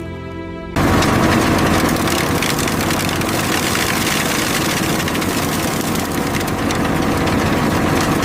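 A heavy engine running steadily under a dense mechanical clatter, cutting in abruptly about a second in after a few notes of music.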